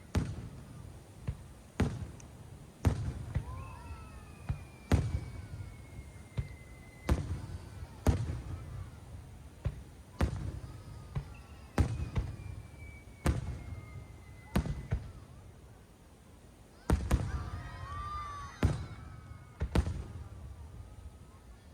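Aerial fireworks shells bursting, about a dozen sharp booms one to two seconds apart, each trailing a low rumbling echo. Two long, slowly falling whistles sound in between, and a burst of crackles and whistles comes near the end.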